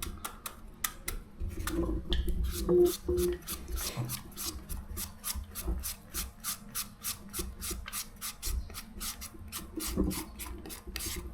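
Green papaya being shredded into strips for som tum: quick, even rasping strokes, about four to five a second.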